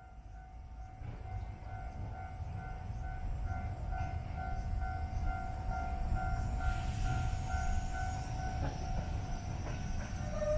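Narrow-gauge electric train approaching: a low rumble that grows steadily louder. Over it, an electronic level-crossing bell dings about three times a second and stops near the end.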